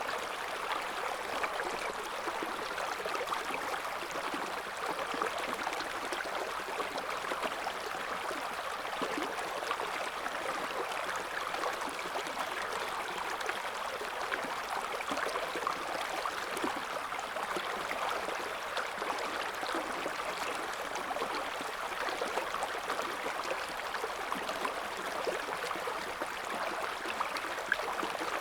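A shallow river's current burbling and splashing over stones in a steady, even flow.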